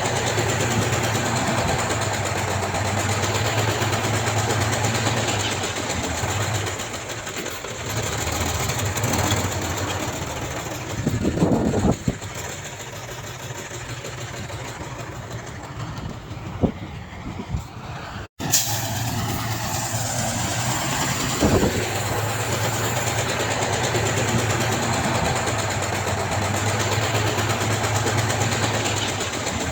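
Heavy diesel earthmoving machinery running steadily, with a constant low engine drone and a few brief louder surges or knocks. The sound cuts out for an instant a little past halfway.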